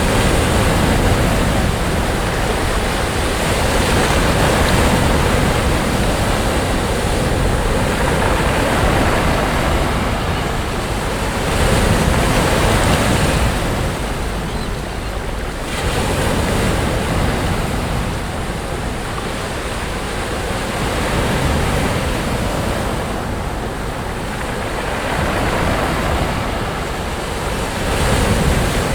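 Sea waves breaking on a sandy beach and washing up the shore, the surf swelling and easing in surges every few seconds, with wind on the microphone.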